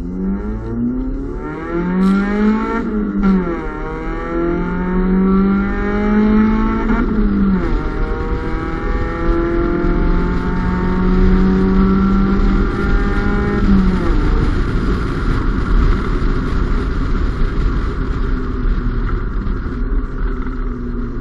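Honda Civic's D15B2 1.5-litre four-cylinder engine through an Invidia aftermarket exhaust, accelerating with its pitch climbing and dropping sharply at upshifts about three and seven seconds in, then a longer slower pull. About fourteen seconds in the engine note fades, leaving a steady rush of road noise.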